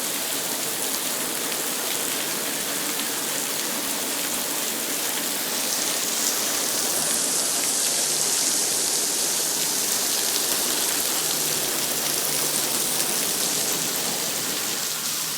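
Heavy rain pouring down steadily, swelling a little louder for a few seconds midway.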